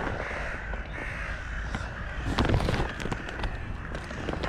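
Crows cawing, with a few sharp clicks a little past halfway.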